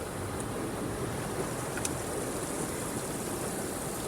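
Spot-free rinse water from an automatic car wash's overhead nozzles, falling steadily on the car's roof and glass, heard from inside the cabin.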